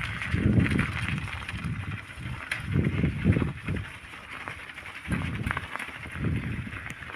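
Bicycle riding along a forest track: a steady hiss of tyres with scattered small clicks, over uneven low rumbling surges.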